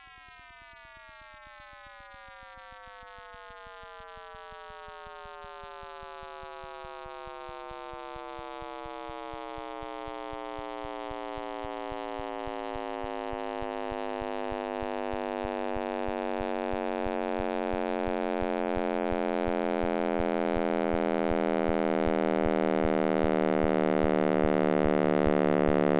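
Sonified space recording: a chord of many tones that slowly slides down in pitch and grows steadily louder, over a fast, even ticking.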